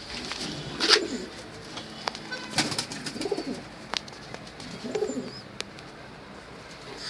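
Homing pigeons cooing, three low coos about two seconds apart, with sharp clicks and taps among them.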